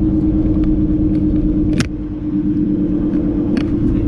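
Semi truck running, heard inside the cab: a steady engine drone over low road rumble. About two seconds in there is a short sharp click or hiss, after which the rumble drops for a moment, and a smaller click comes near the end.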